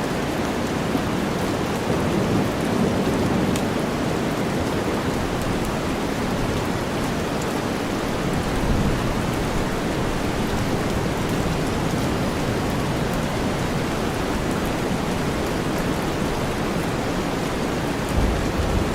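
Steady rain mixed with deep white noise: a dense, even hiss weighted toward the low end, with a slight low swell shortly before the end.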